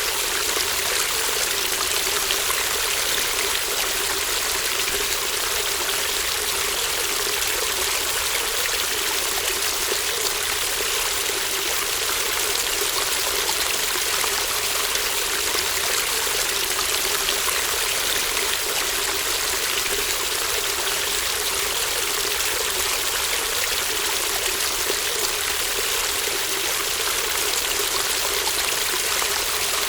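Shallow brook babbling steadily, water running and trickling at an even level.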